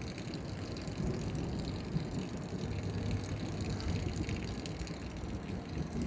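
Low, rumbling noise of gusty wind buffeting the phone's microphone ahead of a thunderstorm, rising and falling unevenly.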